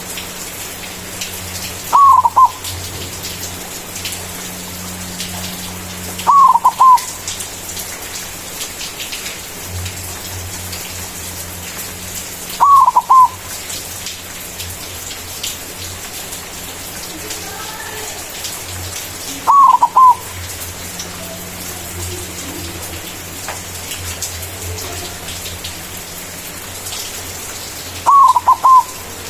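White zebra dove (perkutut) cooing its loud song, a short phrase of quick notes repeated five times a few seconds apart, over a steady background hiss and low hum.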